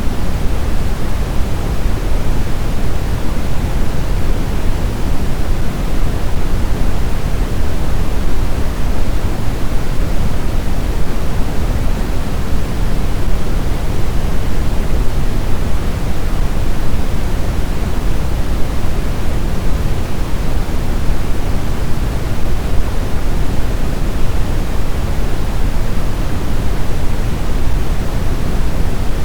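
Blizzard wind ambience: an even, deep rushing noise that holds steady, with no distinct gusts or howls.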